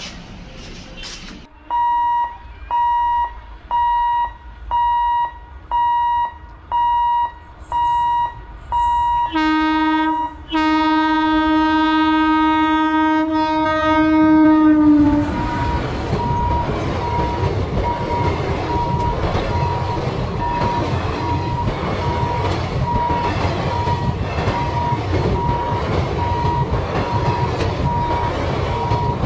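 A warning tone beeping about once a second, then the WAP-4 electric locomotive's horn sounding one long blast from about nine seconds in to about fifteen. The passenger train then passes close by with a steady rumble and wheel clatter, a quicker, fainter beeping still going over it.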